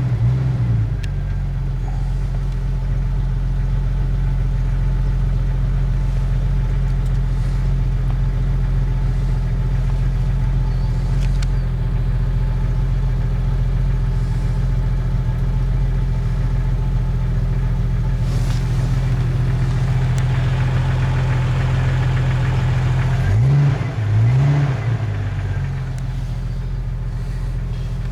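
Jeep TJ engine idling steadily while warming up after a cold start. It is revved briefly once at the start and twice in quick succession near the end, the pitch rising and falling quickly each time.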